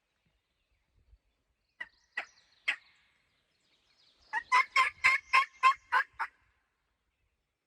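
A hunter's locator call, sounded close by to try to make a distant gobbler shock gobble: three spaced notes about two seconds in, then a rapid run of eight loud notes, about four a second.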